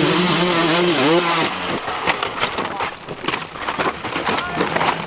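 Dirt bike engine revving with a wavering pitch for about the first second and a half, then a run of irregular sharp crackles and knocks.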